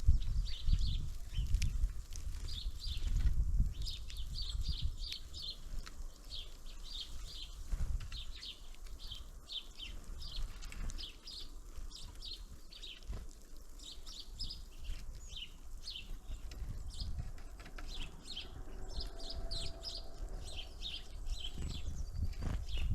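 Small songbirds at a winter feeder giving short, high chirps over and over, in quick runs through most of the stretch, with low thumps and rumble underneath.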